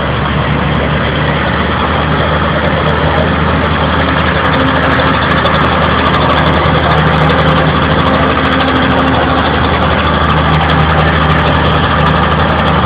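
Classic farm tractor's engine running steadily and loud, getting slightly louder over the stretch.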